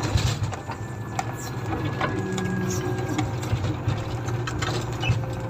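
Komatsu motor grader's diesel engine running steadily, with scattered clicks and knocks of rattling machinery over the hum.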